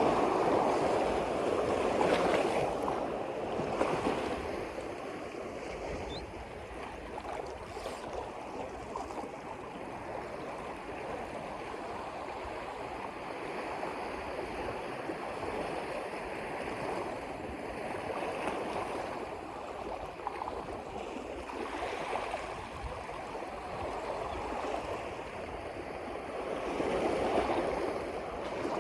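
Water washing and lapping, a steady rush that swells louder near the start and again near the end.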